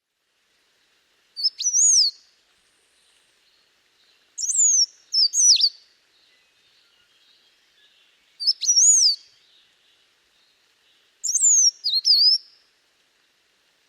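A songbird singing four short phrases about three seconds apart, each two or three quick, clear whistled notes that rise and fall in pitch.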